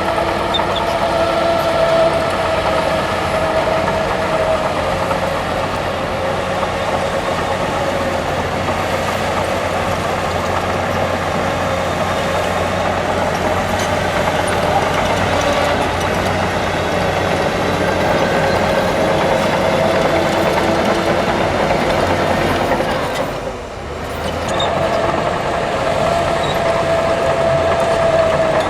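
Heavy diesel earthmoving machinery running steadily under load, engine hum with a held whine over it; the sound dips briefly about 23 seconds in, then picks up again.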